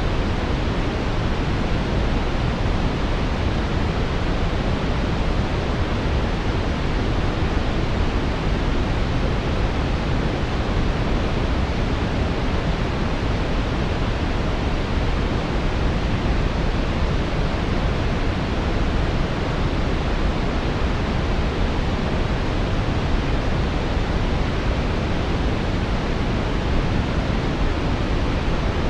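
Synthetic brown noise: a steady, even rumbling hiss, deepest in the low end and rolling off in the highs, with no changes or events.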